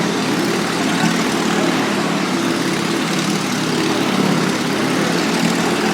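Vintage motorcycle engine, about a hundred years old, running steadily as the bike circles the Wall of Death.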